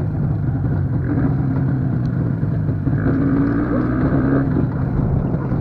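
IZh motorcycle's two-stroke engine running steadily under way.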